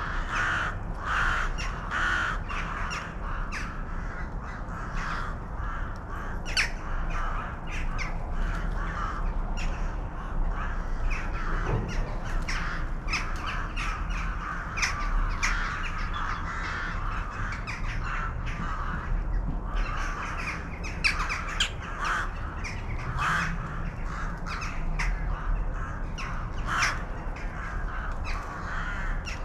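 A flock of birds calling continuously, many short calls overlapping without a break.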